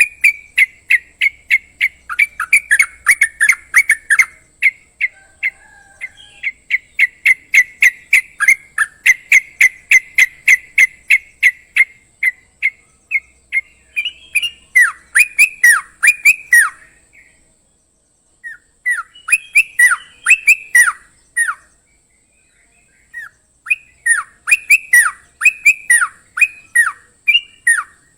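Crocokan bird singing: long rapid runs of sharp, evenly repeated chirps, with downward-sweeping notes in the middle and two short pauses.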